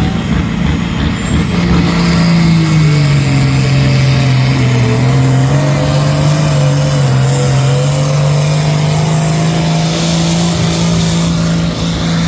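A pulling tractor's engine running loud and steady. Its pitch sags about three seconds in and climbs back near eight seconds.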